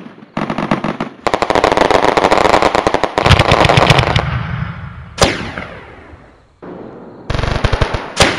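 Home-built electronic firecracker sound unit playing firecracker-string crackle through a speaker: a short burst of rapid cracks, a long dense run of crackling, a single sharp bang with a ringing tail about five seconds in, and another crackling burst near the end.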